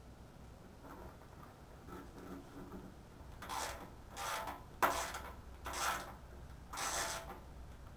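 Motorcycle parts being handled and fitted back into place: about five short scraping rubs in the second half, the third starting with a sharp click.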